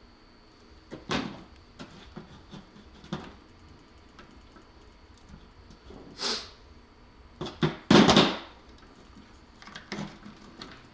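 Hand tools and wiring parts being handled during electrical assembly: scattered clicks and knocks, a short hiss about six seconds in, and a louder clatter around eight seconds in.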